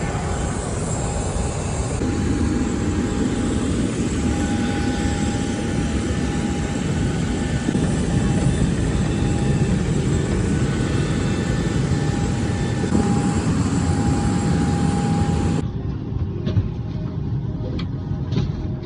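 Steady aircraft noise at the airport: a jet engine or APU whine over a loud rushing rumble. About three-quarters of the way through it changes abruptly to a quieter rumble with a few clicks.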